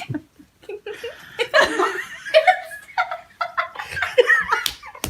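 Human laughter in repeated short bursts, mixed with snickering and giggling.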